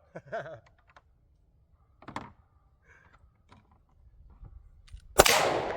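A few faint clicks and knocks, then a single loud gunshot about five seconds in, with a long tail trailing off after it.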